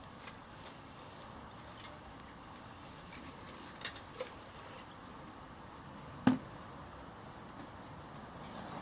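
Small wood fire in a backyard fire pit crackling faintly, with scattered light ticks and one sharp knock about six seconds in.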